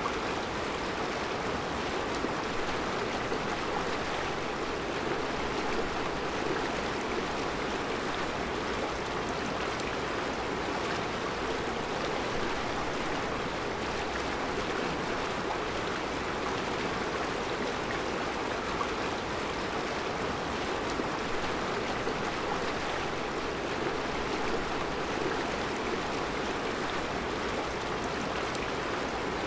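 Mountain river flowing over round rocks in a rocky riverbed: a steady, even rush of water.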